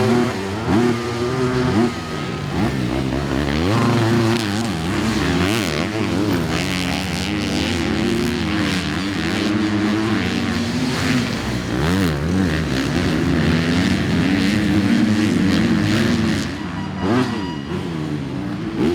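Several motocross race bikes' engines revving hard on and off the throttle, overlapping, their pitch repeatedly climbing and dropping.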